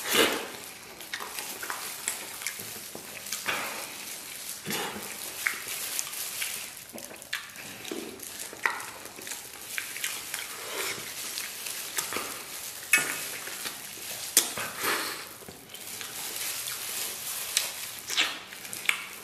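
Close-up wet chewing, sucking and lip-smacking of gelatinous braised beef hoof being bitten and torn from the bone, with irregular short sharp clicks scattered throughout.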